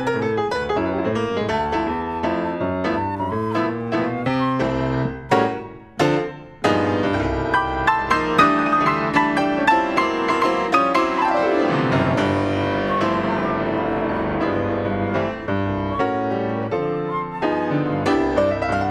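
Piano duet playing a swing jazz standard, with busy chords and melody throughout. About five seconds in there are two short, sharp chords with a brief break, and around the middle comes a sweeping glissando run down and back up the keyboard.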